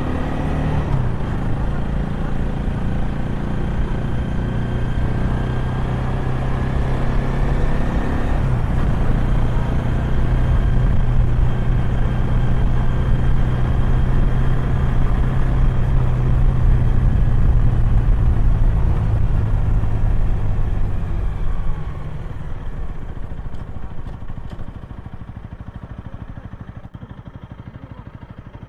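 Honda Rebel 250's single-cylinder engine and exhaust while riding. The engine pulls up in pitch, shifts gear about eight seconds in, then runs steadily at cruise. A little after twenty seconds the throttle closes and the sound drops away.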